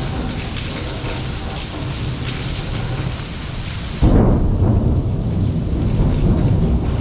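Steady rain falling, then about four seconds in a loud, rolling rumble of thunder breaks in suddenly and keeps rumbling under the rain.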